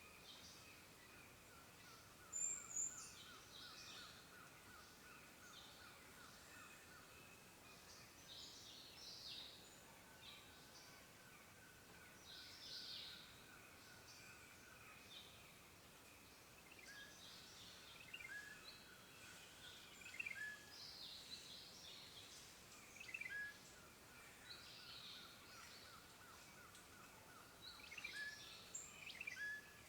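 Faint forest birdsong: several birds give short high chirps and calls at irregular intervals over a long, rapidly pulsed trill that stops and starts again.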